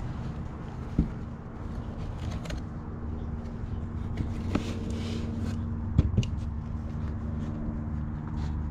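Rummaging through dumpster contents: a few sharp knocks about 1, 4.5 and 6 seconds in, and brief rustling and scraping, over a steady low engine-like hum.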